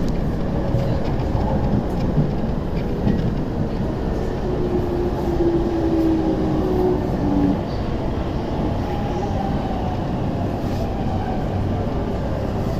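JR E231-500 series electric train heard from inside the car, running and slowing into a station: a steady low rumble of wheels on rail, with the traction motors' inverter whine falling slowly in pitch from about four and a half seconds in and cutting off a little after seven seconds.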